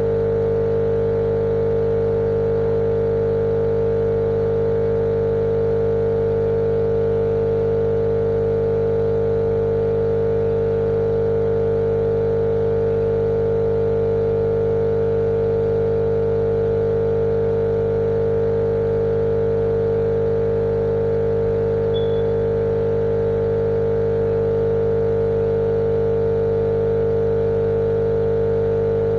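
Steady, unchanging motor-like drone with a strong hum, played as a continuous white-noise track for baby sleep.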